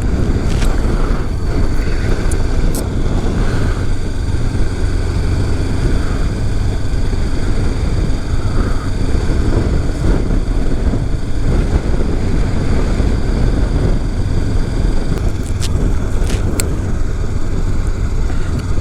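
Honda CB500X parallel-twin engine running steadily under way, with wind rushing over the microphone.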